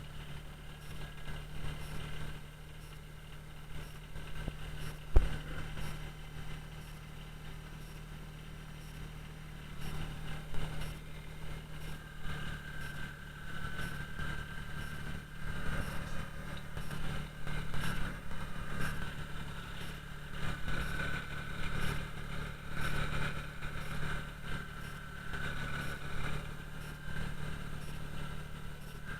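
Kubota BX25D tractor's three-cylinder diesel engine running steadily, with one sharp knock about five seconds in and a higher whine joining about halfway through.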